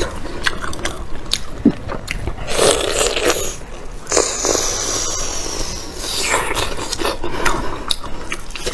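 Close-up eating sounds: biting and chewing, with scattered clicks and scraping.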